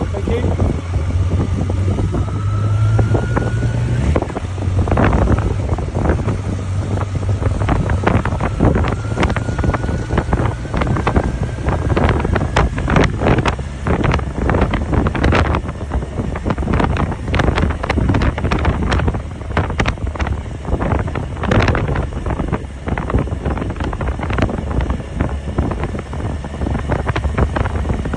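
Motorcycle engine running steadily at riding speed, with a slowly rising whine, heavy wind buffeting on the microphone and frequent irregular knocks and clatter.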